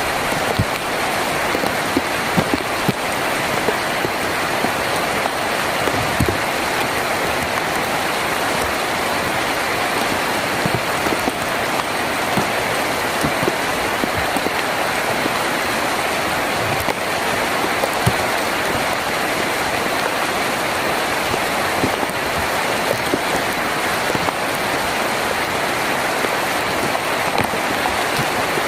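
Heavy rain drumming steadily on a tin roof: a dense, even hiss with many separate drop strikes standing out here and there.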